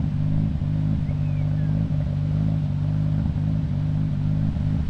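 Car engine idling steadily at an even pitch, with no revving.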